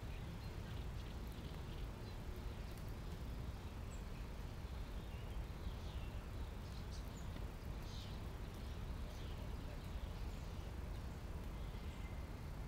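Faint birdsong, scattered short chirps mostly in the second half, over a steady low outdoor rumble.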